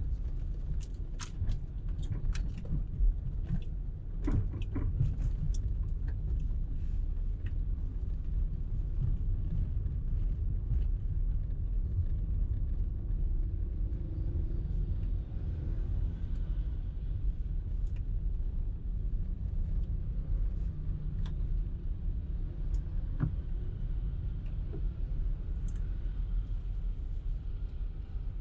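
Car driving in traffic: a steady low rumble of engine and road noise, with scattered small clicks and knocks during the first few seconds.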